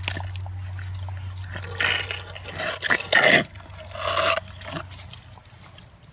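Wet, squelching sounds of digging in mud, coming in several short bursts over a steady low hum.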